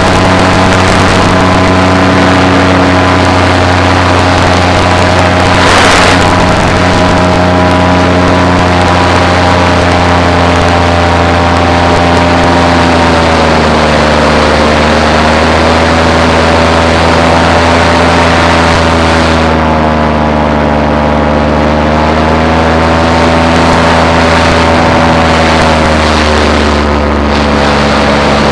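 Paramotor engine and propeller running steadily in flight, its pitch easing down slightly about thirteen seconds in and wavering after. A brief rush of noise about six seconds in.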